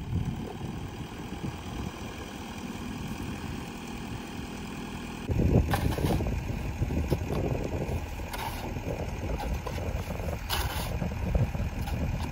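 Off-road truck's engine running as it tries to drive through deep snow. It gets clearly louder about five seconds in as the engine is worked harder.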